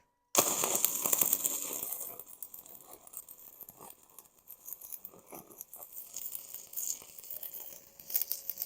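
Stick (arc) welding: an irregular crackle from the arc as stringer beads are run to build up a worn fast-hitch bale. It starts abruptly and is loudest in the first couple of seconds, then turns lower and patchier.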